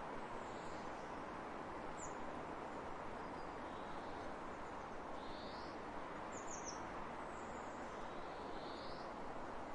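Steady, even hiss of wind across open fields, with a few faint, high bird chirps above it: a single chirp about two seconds in, a quick run of three about six and a half seconds in, and short rising calls around five and nine seconds.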